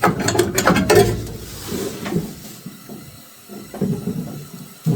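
Metal clicks and clanks of a socket wrench breaking a tight ground bolt loose, bunched in the first second or so, then quieter handling and scraping.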